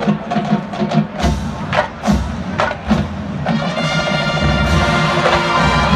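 Marching band playing: sharp drum strikes with deep bass-drum thumps, then a full brass chord held from about halfway through.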